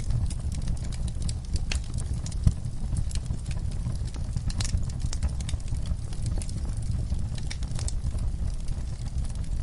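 Backyard fireplace fire crackling, with irregular pops and snaps over a steady low rumble; one sharper pop about two and a half seconds in.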